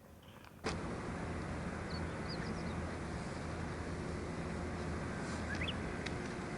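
After a sudden cut about half a second in, a steady outdoor rushing noise with a low steady hum underneath, and a few short, high, rising chirps like small birds.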